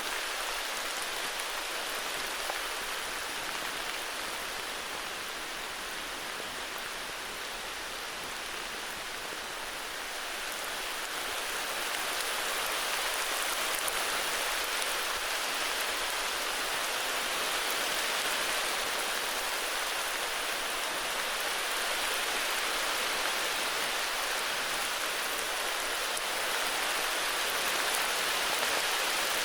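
Steady heavy rain falling, a dense even patter that grows a little louder about a third of the way in.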